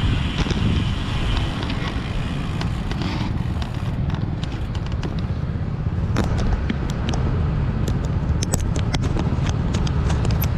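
Steady low rumble of wind on the microphone and road traffic noise, with scattered light clicks from about four seconds in.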